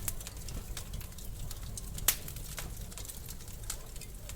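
Wood fire crackling in a fireplace: a rapid scatter of sharp snaps and pops, one louder pop about two seconds in, over a low, steady rumble of the flames.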